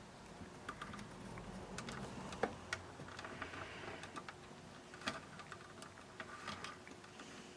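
Faint, scattered small clicks and taps of a hand tool working on a part inside a radio-cassette player as it is bent straight, over a faint steady hum.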